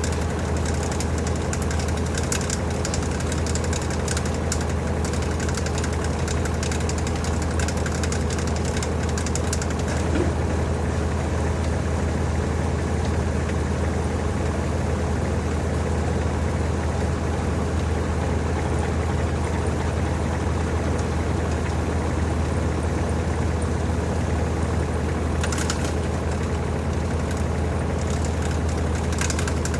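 LG TurboDrum WT-R852 top-loading washing machine spinning a load of bedding, a steady, even mechanical hum from the drum and motor, typical of the spin stage near the end of the cycle.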